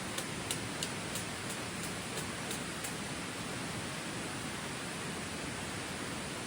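Heavy rain falling steadily on the forest, an even hiss. For about the first three seconds a run of light ticks, about three a second, sits over the hiss.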